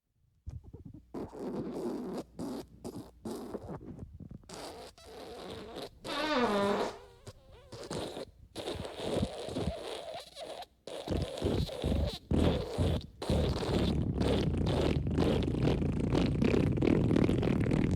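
A string of fart sound effects: several short blasts with brief gaps between them, one squeaky one falling in pitch about six seconds in, then a long unbroken fart from about two-thirds of the way through.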